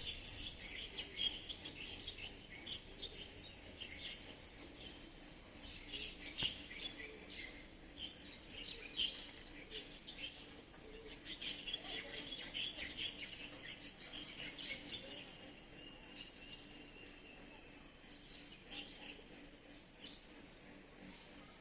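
Small birds chirping in many short, scattered calls, busiest in the first half, over a steady high-pitched hum.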